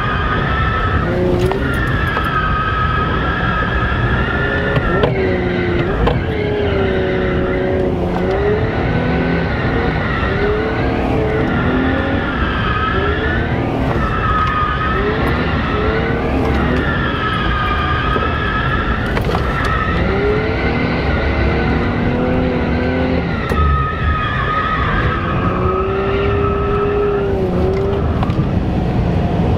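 A car drifting: engine revving hard and tyres squealing, in a series of screeches whose pitch arcs up and down every second or two.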